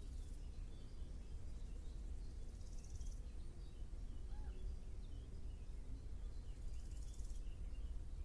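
Outdoor nature ambience: faint small birds twittering over a steady low rumble, while an insect, a grasshopper or cricket, gives three short, high, buzzing stridulation bursts, at the start, about three seconds in and near the end.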